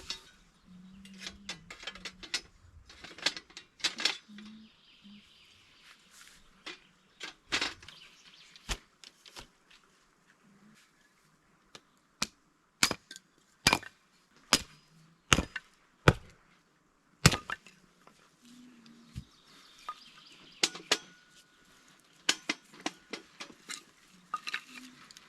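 A series of irregular sharp knocks and clacks, like objects being handled and set down, loudest and most frequent through the middle, with lighter clinks and rustling around them.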